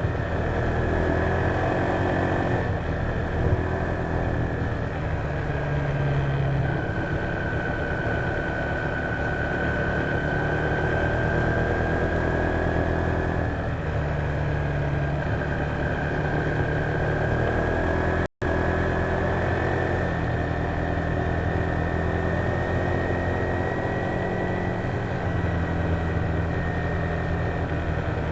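Honda PCX150 scooter's single-cylinder engine running at a steady riding speed, with a high whine that slowly falls and rises again, picked up by the scooter's own dashcam. The sound cuts out for a split second about two-thirds of the way through.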